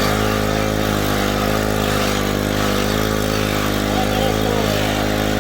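A small petrol engine running steadily at one even speed.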